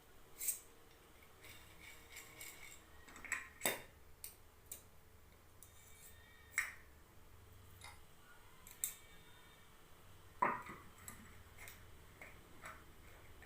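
Bearing puller being fitted and worked on a ceiling fan's old 6202 bearing. It gives about a dozen sharp clicks and knocks at irregular spacing, a cluster around the middle and a louder knock about ten seconds in.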